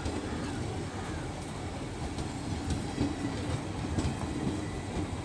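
Passenger train sleeper coaches rolling past on the rails: a steady rumble of wheels on track with occasional clicks over the rail joints.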